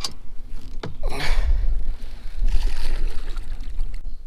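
Sounds of a fishing boat on the water: a steady low rumble with two quick swishing sounds near the start and short bursts of hissy noise about a second in and again later.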